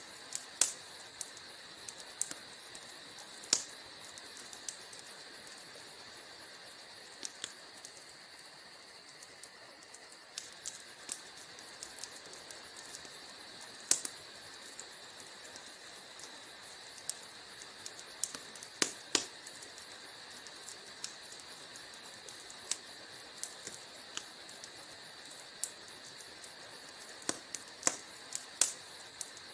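Wood fire burning in a fireplace: a steady hiss with irregular crackles, and a few sharper, louder pops scattered through.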